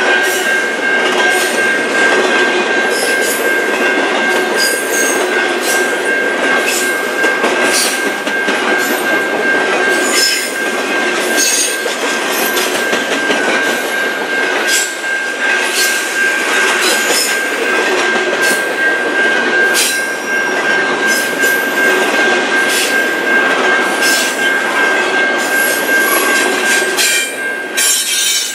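Double-stack intermodal well cars of a freight train rolling past at close range: steady wheel-on-rail noise with a high squeal held throughout and irregular sharp clicks and knocks from the wheels and couplings.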